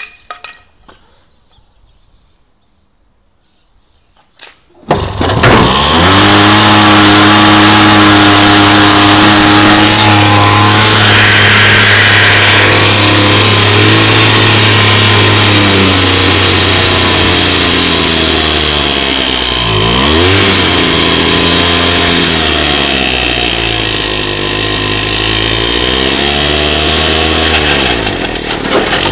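Sachs Stamo 98 two-stroke engine on an Agria walk-behind tiller starting about five seconds in, after a few faint clicks, then running loud and steady. In the second half its speed dips and recovers a couple of times, and it drops lower near the end.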